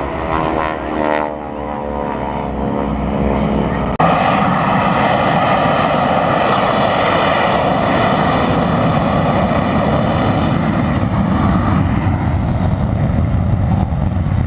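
Aircraft engine noise: for the first four seconds an aircraft passes with its engine tone falling in pitch. Then an abrupt cut brings in louder, steady engine noise that lasts to the end.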